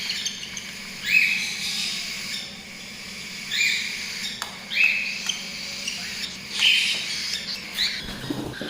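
Cockatiel chicks giving rasping begging calls while being hand-fed with a syringe, each call sweeping upward in pitch and repeated every second or two.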